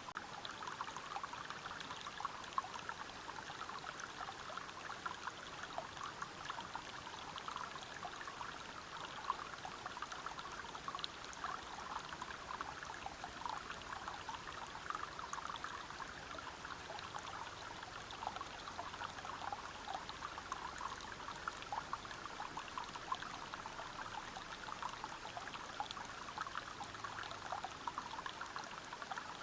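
Forest river water spilling over rocks at a waterfall: a steady rush of splashing water with a dense patter of small splashes, unchanging throughout.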